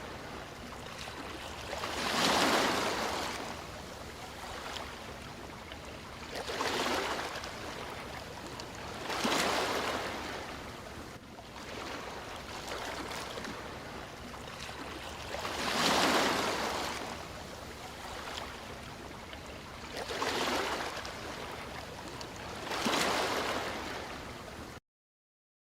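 Sea waves breaking: six swells of surf rise and fall over a steady wash of water, then the sound cuts off abruptly near the end.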